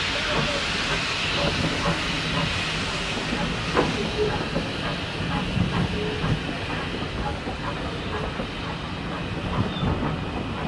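Steam locomotive hissing as it lets off steam, over a low rumble, with a single knock about four seconds in. The hiss thins out towards the end.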